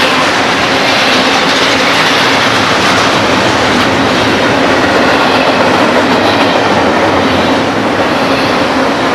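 A train passing close by on the mainline: a loud, steady rush of wheels on rail that runs unbroken.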